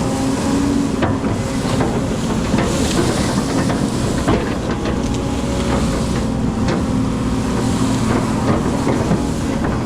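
Excavator's diesel engine running steadily, with a hiss and scattered sharp knocks over it.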